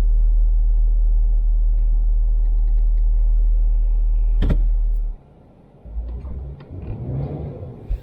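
Low, steady rumble of a 4x4 truck moving slowly through snow, with one sharp knock about four and a half seconds in. The rumble drops off abruptly near five seconds, then comes back unevenly.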